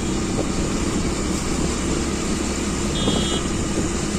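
Motorcycle and road traffic engines running in a traffic jam, a steady hum of idling and creeping vehicles. A short high-pitched beep sounds about three seconds in.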